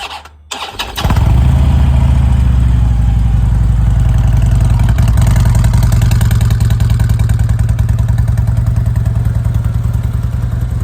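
Harley-Davidson V-twin motorcycle engine cranking and catching about a second in, then running at a steady, loud, pulsing idle.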